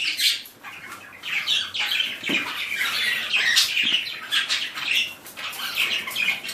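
A mixed group of small pet parrots, among them budgies and lineolated parakeets, chattering and squawking together in many short, overlapping calls.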